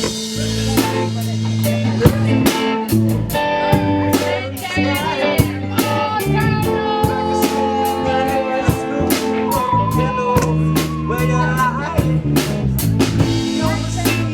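Live band playing an instrumental passage: a drum kit keeping a steady beat with rimshots under bass and guitar, and a lead line of bending, wavering notes over the top.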